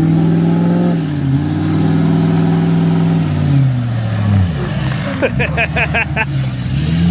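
L5P Duramax 6.6-litre V8 turbo-diesel pickup engine revving hard while the truck is stuck in mud, its pitch holding high, dipping and climbing again before dropping away about halfway through. A short quick string of about six pulsed sounds follows, and the engine revs back up near the end.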